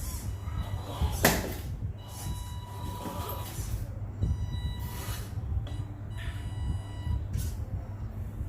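Electric motor of an RC rock crawler running at low throttle, giving a thin steady whine that comes and goes in short stretches, with scrapes and knocks of the truck on its obstacles, one sharp sweep about a second in.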